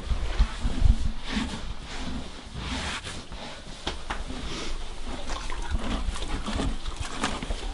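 Horses moving and feeding in a stable: a few heavy low thumps in the first second, then rustling and scattered short clicks.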